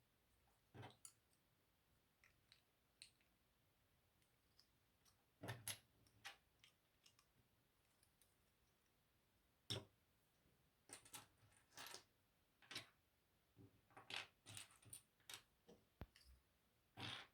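LEGO plastic pieces being handled and pressed together: faint, irregular light clicks and small rattles, coming more often in the second half.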